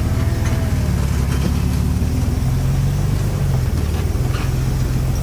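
Off-road 4x4 truck's engine running low and steady as it crawls up rough terrain, its pitch stepping up about halfway through.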